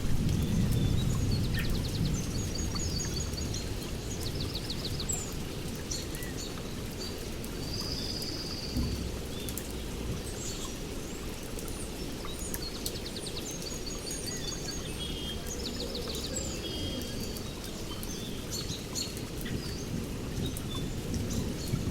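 Steady rain falling, with small birds chirping and trilling over it. A low thunder rumble dies away over the first few seconds.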